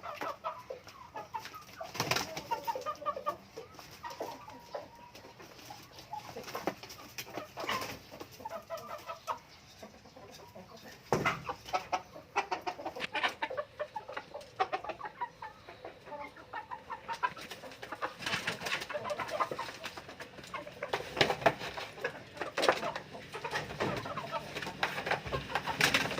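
Domestic birds squabbling: bursts of short calls mixed with sharp scuffling knocks, busiest a couple of seconds in, around the middle and again towards the end.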